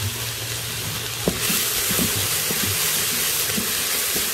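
Onion, celery and garlic sizzling in oil in an Instant Pot on its sauté setting, with scattered clicks of a utensil stirring against the pot. The sizzle gets louder a little over a second in.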